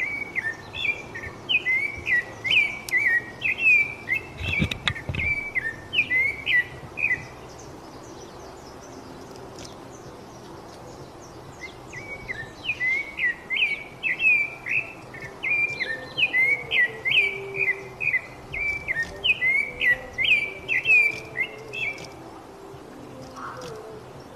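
A bird chirping in quick runs of high notes, a few a second: one bout of about seven seconds, a pause of several seconds, then a second bout of about ten seconds. A brief low thump comes about five seconds in.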